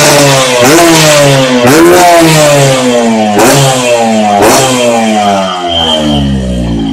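Yamaha RX-King's two-stroke single-cylinder engine revved through an aftermarket under-belly exhaust: about four throttle blips, each climbing fast and falling slowly, with sharp cracks at some peaks, settling lower near the end.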